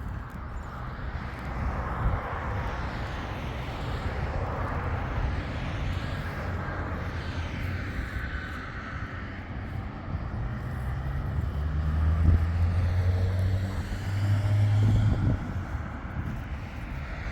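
A motor engine running steadily with a low hum, growing louder for a few seconds in the second half before easing off.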